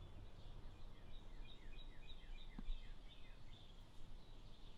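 A small bird singing a quick series of about ten short, falling notes, over a low steady outdoor rumble, with one soft click about halfway through.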